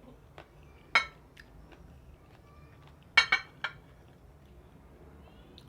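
Cutlery clinking against a plate: one sharp clink, then a quick run of three about two seconds later.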